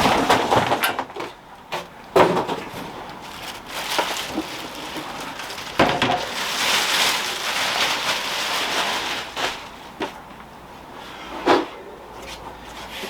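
Packaging being handled and cleared away: rustling with a few sharp knocks.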